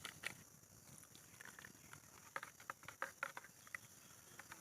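Faint, irregular clicks and light crinkles of small objects and packaging being handled, most of them bunched between about two and four seconds in.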